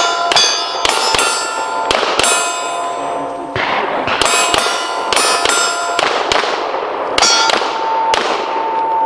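Handgun fired in a quick string of about a dozen shots at steel targets, with a ringing clang from the struck steel plates after most shots. The shots come in uneven bunches, with a short pause in the middle.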